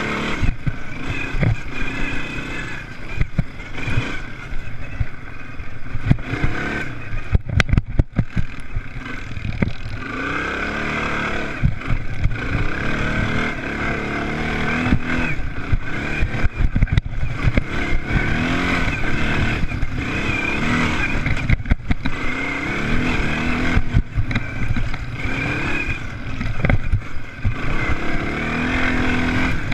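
Off-road racing engines at motocross, revving up and falling back again and again as they accelerate and shift, with frequent short knocks throughout.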